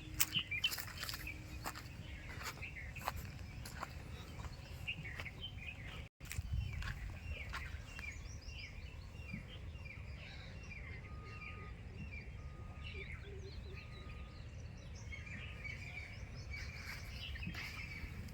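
Birds chirping over and over in quick short falling calls, with a few short steady whistled notes in a row a little past the middle, over a steady low rumble. The sound cuts out for a moment about six seconds in.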